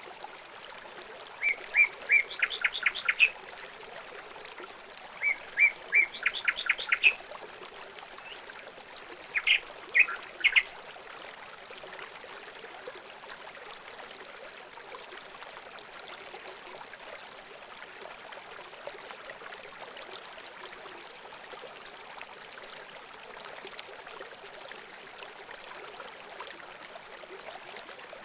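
A songbird sings three short phrases in the first ten seconds, each a few separate notes followed by a quick run of notes. Running water keeps up a steady rush underneath throughout.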